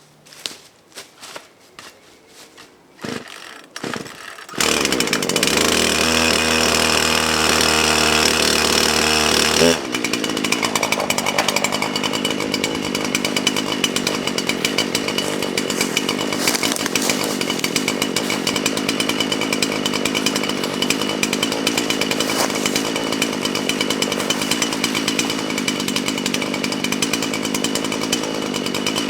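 Gas chainsaw: after a few light knocks, it starts running at a steady high speed about four seconds in. About ten seconds in its sound turns rougher and slightly quieter, and it keeps running like that.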